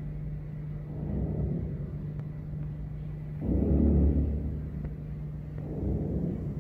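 Male giant kob (kabeljou) drumming, their sonic muscles vibrating the swim bladder: a deep rumbling drone that comes in pulses, a weaker one about a second in, a loud one starting suddenly midway and another near the end. It is a spawning-season call, used to attract females and to deter rival males.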